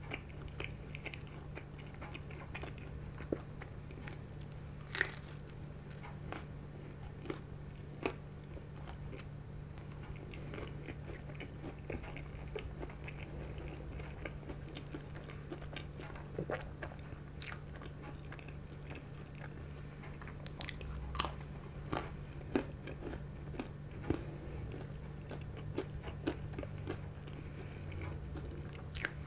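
Close-up chewing and biting of pizza crust: wet mouth sounds with scattered crisp crunches and clicks at irregular intervals, over a steady low hum.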